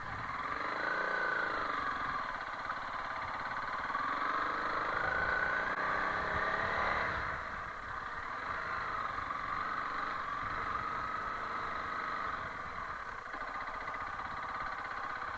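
Honda CRF300L Rally's single-cylinder four-stroke engine running at modest revs, its pitch rising and falling with the throttle. It climbs to a peak about seven seconds in, then drops back.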